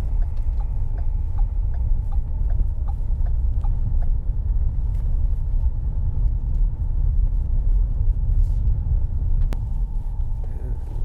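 Steady low rumble of road and engine noise inside a moving car's cabin, with faint scattered ticks and a single sharp click about nine and a half seconds in.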